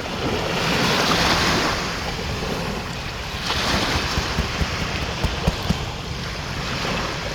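Sea surf washing onto the beach, swelling twice, with wind rumbling on the microphone. A few light taps come through around the middle.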